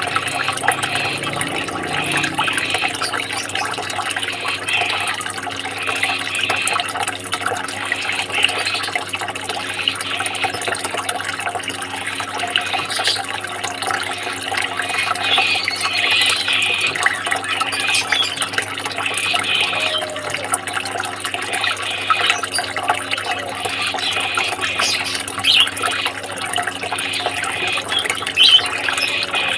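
Water trickling and splashing steadily, with a low steady hum beneath it.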